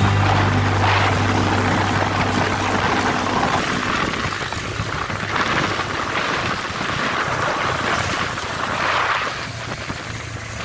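A motor vehicle running, with wind buffeting the microphone in repeated swells.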